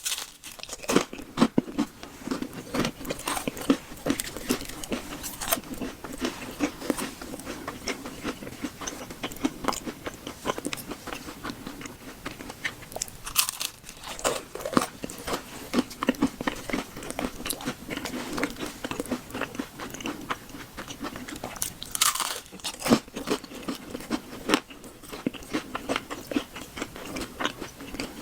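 A person biting and chewing food close to the microphone: a dense run of crunching, clicking mouth sounds that never lets up, in the manner of an ASMR eating recording.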